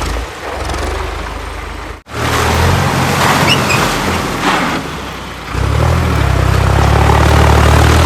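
Diesel engine of a heavy machine running and revving under load. The sound breaks off abruptly about two seconds in, then comes back louder, eases off in the middle and picks up again near the end.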